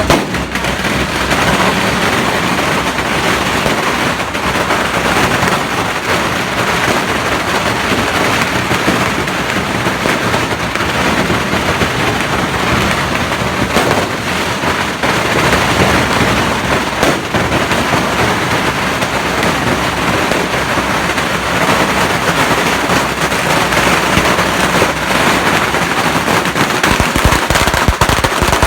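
Strings of firecrackers going off without a break, a dense rapid crackle of bangs.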